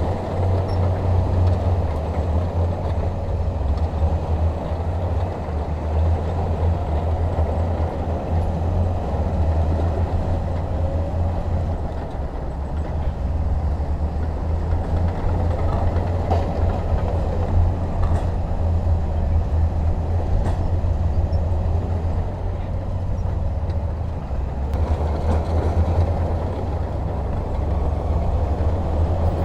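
Heavy diesel machinery engine running steadily with a deep, even drone, with a few faint clicks in the middle.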